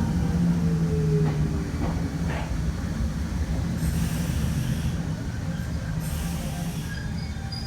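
Kobe Electric Railway electric train running, with a steady low hum and a falling whine in the first second or so. Two short hisses come in the second half.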